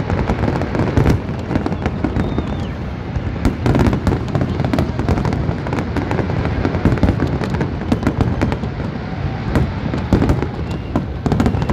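Large aerial fireworks display: shells bursting continuously, many sharp bangs in quick succession over a steady low rumble.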